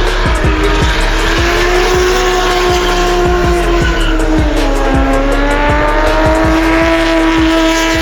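Drift car engine held at high revs with tyres squealing; the revs dip about five seconds in, then climb again. A music track plays underneath.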